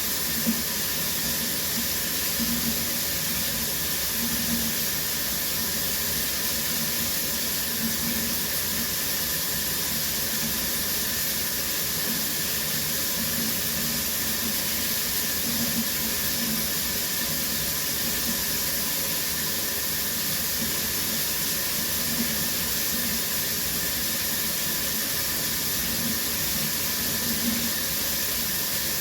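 Shower running steadily: an even hiss of falling spray, with soft, uneven splashes now and then.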